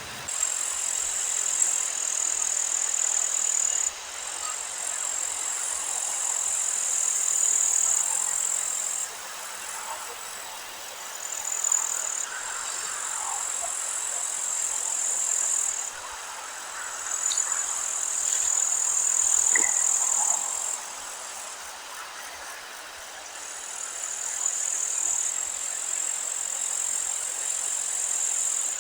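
Meadow ambience: a high, steady buzzing that comes and goes in stretches of a few seconds, over a light hiss, with a few faint bird chirps.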